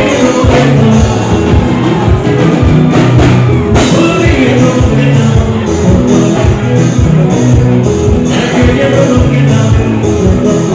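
Live band music with singing, loud, over a steady drum beat and bass line.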